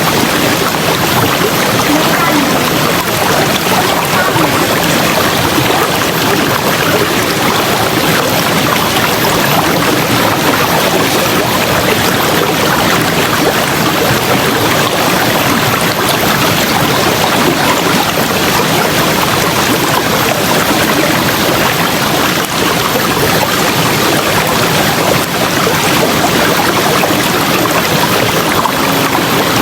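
River water running, a loud, steady rush with no breaks.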